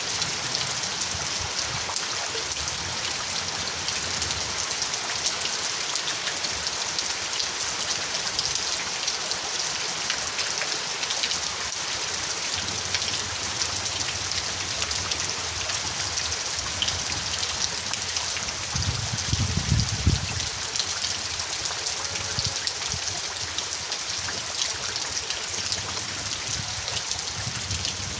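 Steady rain falling, a dense hiss of many drops striking surfaces, with a brief low rumble about two-thirds of the way through.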